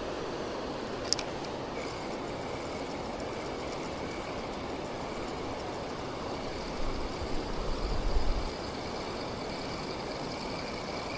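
Steady rushing of water pouring over a weir, with a single sharp click about a second in and a faint steady high whine from about two seconds on. A low buffeting of wind on the microphone comes around two-thirds of the way through.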